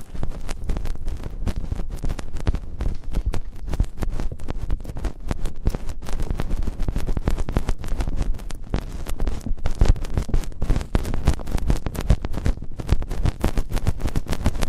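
Close-microphone ASMR ear-cleaning sounds: a dense, uneven run of sharp crackles and scratches, as if something is rubbed and tapped right at the microphone's ear.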